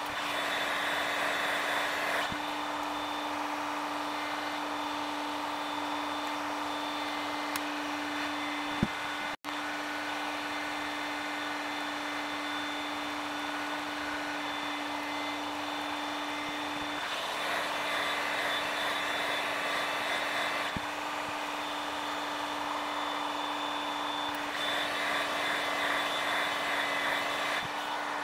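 Steady electric hum with a hiss, like a small motor or blower running, swelling louder three times, with one sharp click about nine seconds in.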